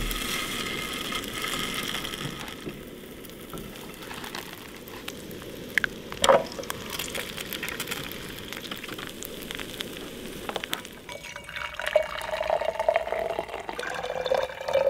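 Food sizzling in a frying pan, a steady crackling hiss, with a few sharp clinks about six seconds in.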